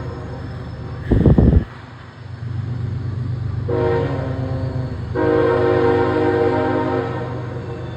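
Approaching freight train's diesel locomotive air horn, sounding two chord blasts in the second half, a shorter one and then a longer one, over the steady low rumble of the locomotive. A brief loud low thump comes about a second in.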